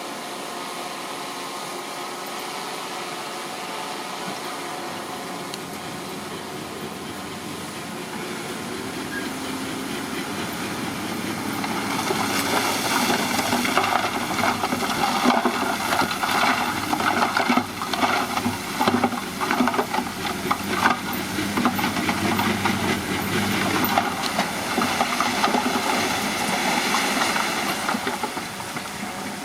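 Bulldozer engine running steadily, then louder from about twelve seconds in, with many rapid clanks and knocks as it pushes rocky soil.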